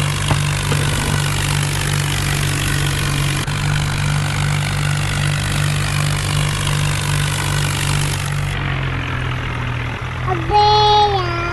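Swaraj tractor's diesel engine running steadily. About a second before the end, a short, louder wavering tone cuts in over it.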